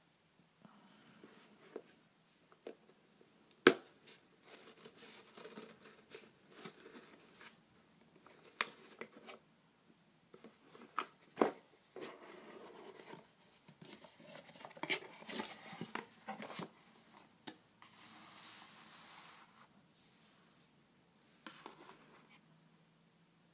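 Cardboard and plastic packaging being opened and handled: scattered clicks and taps, a sharp knock about four seconds in, bursts of tearing and rustling, and a steady hiss lasting about a second and a half near the end.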